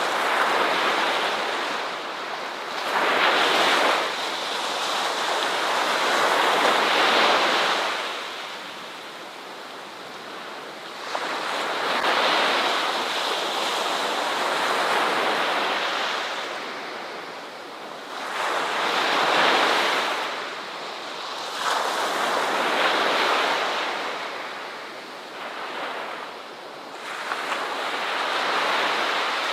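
Ocean surf breaking on a shore, rising and falling in swells every few seconds.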